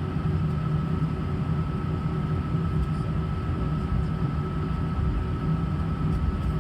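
Steady drone inside an Airbus A319's cabin, a low hum with a faint steady whine over it from the aircraft's engines and air systems.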